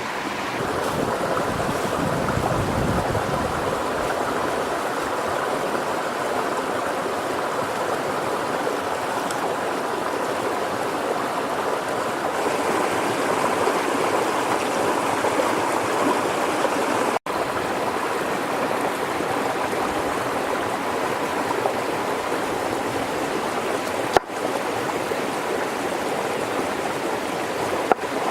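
River water flowing over stones in a steady rush, broken twice by a momentary dropout.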